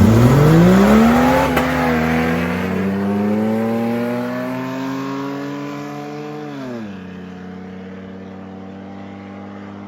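A 4x4's engine launched hard at full throttle, revs climbing steeply and then more slowly as it pulls away down a drag track. The revs drop sharply about seven seconds in as the throttle comes off, and the engine runs on lower and steadier, fading with distance.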